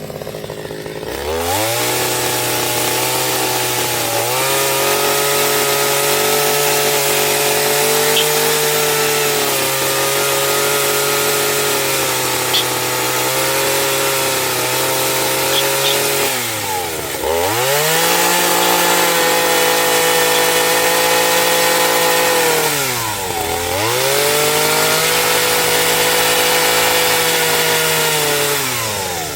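Chainsaw running at high revs, its pitch rising about a second in and holding steady. The revs drop and pick up again twice, and they fall away near the end.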